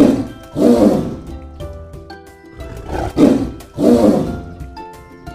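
Tiger roaring: four loud roars in two pairs, over background music.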